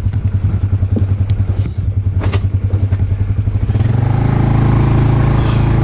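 Polaris off-road vehicle engine idling with a lumpy, pulsing beat, then picking up speed about four seconds in and running steadily. A few light clatters come through early on the idle.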